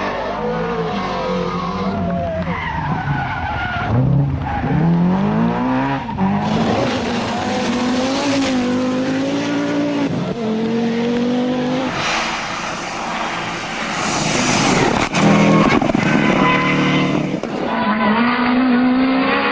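Rally cars' engines revving hard, the pitch repeatedly climbing and dropping through gear changes as the cars accelerate and slide past, over a steady wash of tyre and road noise. The sound changes abruptly a couple of times, as between different passes.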